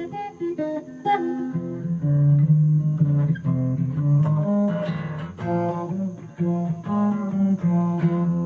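Instrumental guitar passage of the song: picked notes and strummed chords over a low bass line, without vocals.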